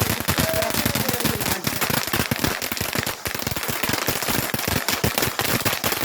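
Crackling fireworks: a dense, irregular stream of sharp pops and small bangs, many a second, like a string of firecrackers.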